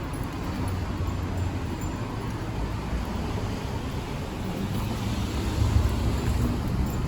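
City street noise: a steady low rumble of road traffic, swelling a little about three-quarters of the way through.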